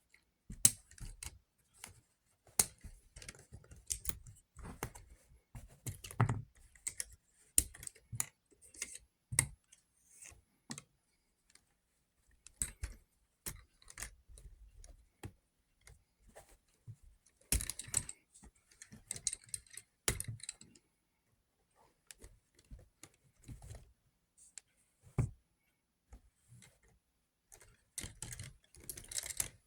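Plastic K'nex pieces clicking, snapping and rattling in irregular clusters with short pauses, as the model V-twin engine is handled and pulled apart.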